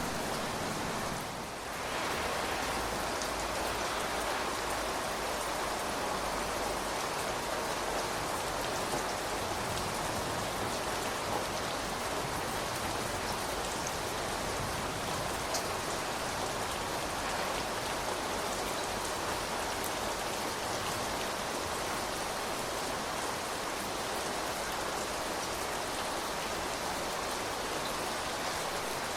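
Steady rain falling, an even hiss with scattered faint drop ticks; the sound dips briefly about a second in, then holds level.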